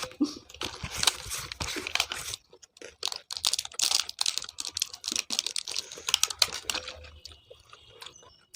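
Close-up eating noises: chewing with quick, irregular clicks and crackles.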